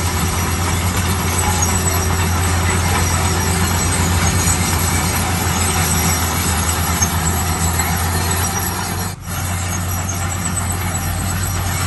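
Heavy diesel engine of a bulldozer running steadily under a broad mechanical clatter and hiss, with a brief break in the sound about nine seconds in.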